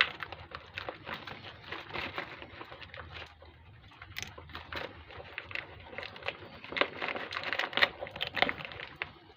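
A part on a motorcycle being pried out with a hand tool: a run of irregular clicks, scrapes and crinkling, busiest and loudest near the end.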